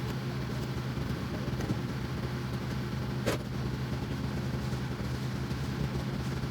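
Engine running steadily at an even speed, with one short sharp click about three seconds in.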